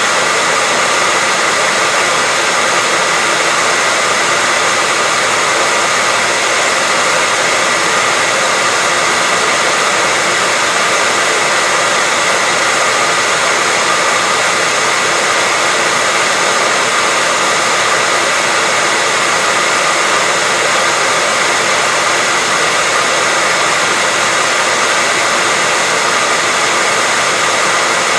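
Handheld hairdryer running continuously: a steady, even whoosh of fan and airflow with a faint constant whine in it, never changing.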